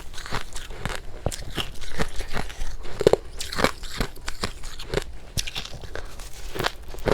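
Close-miked biting and chewing of powdery freezer frost ice: a run of irregular crisp crunches, with a louder bite about three seconds in.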